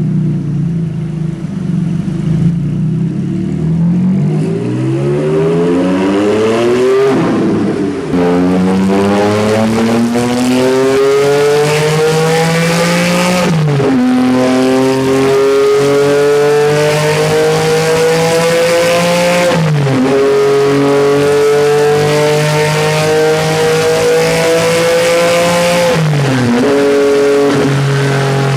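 Porsche 718 GT4's 4.0-litre naturally aspirated flat-six, breathing through an Akrapovic exhaust with the particulate filter removed, idles briefly, then revs up through the gears on a dyno. The engine note climbs four times, each climb cut off by a sudden drop in pitch at an upshift, and each climb slower and longer than the one before.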